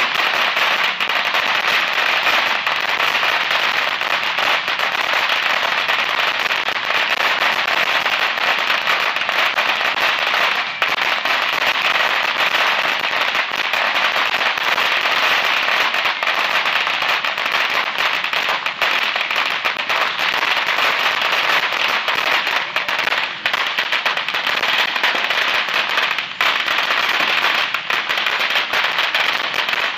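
Fireworks crackling in a dense, unbroken rattle of many small pops a second, with no let-up.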